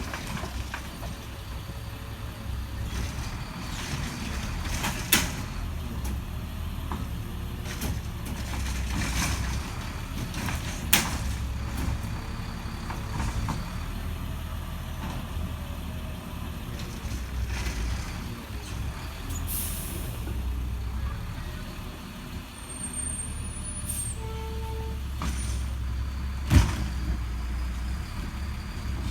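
Recycling truck's engine running steadily, with a few sharp clanks and bangs, the loudest about three-quarters of the way through, and a short hiss near the middle.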